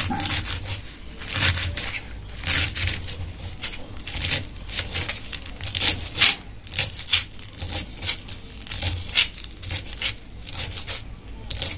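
Spinach leaves being finely chopped with a knife: a quick, irregular run of short crisp cuts, a few a second, with brief pauses.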